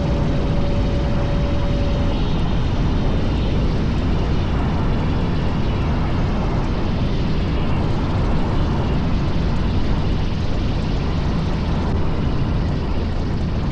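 Cockpit noise of a 1956 Cessna 172 landing: its Continental O-300 six-cylinder engine and propeller run steadily under a heavy rumble and wind noise. A steady tone sounds for the first couple of seconds, then stops.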